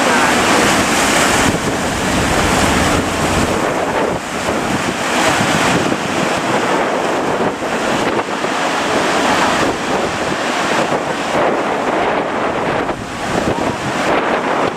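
Strong wind blowing across the microphone over breaking surf, the noise swelling and easing every few seconds.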